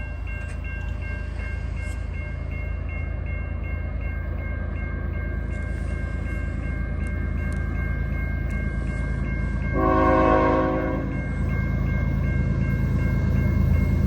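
Level-crossing warning bell dinging in a fast, even rhythm while an approaching diesel freight train's rumble grows louder. About ten seconds in, the lead locomotive's K5HL five-chime air horn sounds one short blast.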